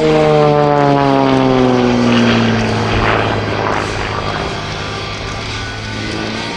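Xtreme Air XA41 (Sbach 300) aerobatic plane's 315 hp Lycoming AIO-580 engine and propeller. The engine note falls in pitch over the first three seconds, then runs steadier.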